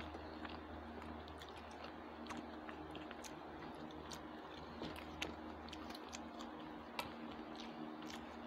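Close-miked chewing and soft wet mouth clicks of people eating rice by hand, with scattered small clicks over a faint steady low hum.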